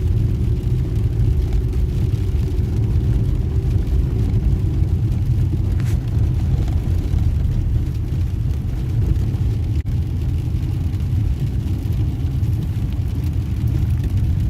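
A car driving, with a steady low rumble of engine and tyres on the road.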